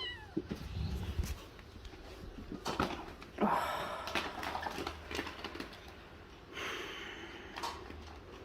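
A cat gives one short, falling meow at the very start, followed by quiet scattered rustling and scratching sounds.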